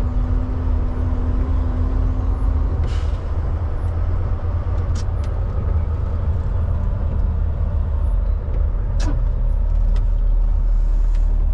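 Semi truck's diesel engine running, heard as a steady low rumble inside the cab while driving, with a short hiss of air about three seconds in and a few brief clicks or squeaks later on.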